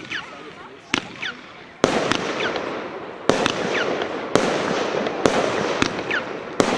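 A 25-shot firework battery (cake) firing: sharp shots about a second apart, each followed by a short falling whistle, with a dense crackle filling in from about two seconds in.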